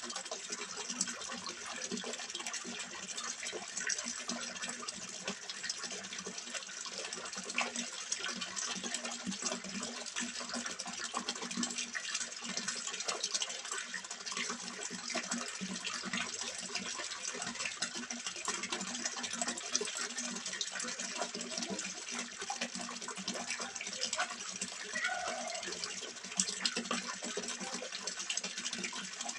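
Water steadily splashing and trickling into a small fish pond, an even continuous rush.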